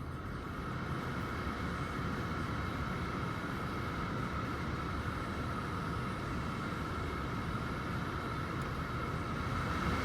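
Newly installed HVAC blower motor in a Mercedes-Benz E320 running at speed, a steady rush of air with a thin, steady motor whine, getting a little louder near the end.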